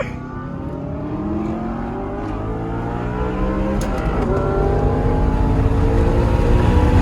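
Supercar engine accelerating hard, its pitch climbing steadily and getting louder, with an upshift about four seconds in after which the revs climb again.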